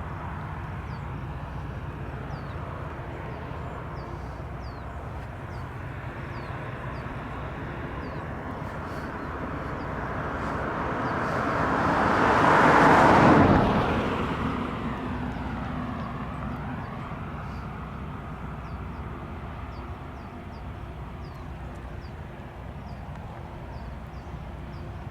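A vehicle passing close by: a rushing noise swells to a loud peak about halfway through, then fades away, over a steady low rumble.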